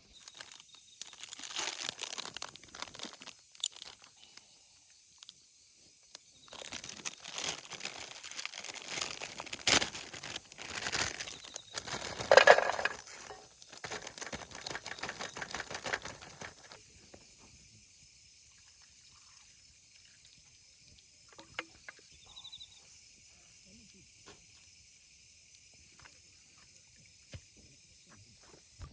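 Rustling and crinkling in irregular bursts, like packaging or a bag being handled, loudest about twelve seconds in and stopping about two-thirds of the way through. A quiet steady high hiss with a few faint clicks follows.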